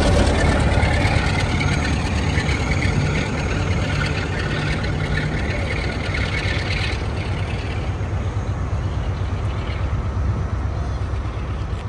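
Railway station platform noise: a steady rumble of a train with a hiss above it. The hiss drops away about seven seconds in, and the whole sound fades slowly near the end.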